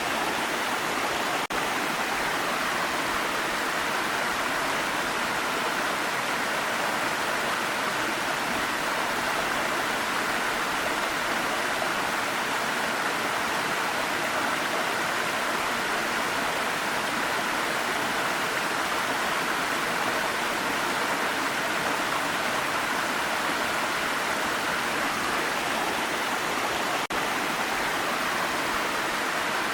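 Steady, even rush of falling water from a waterfall, with no breaks or changes.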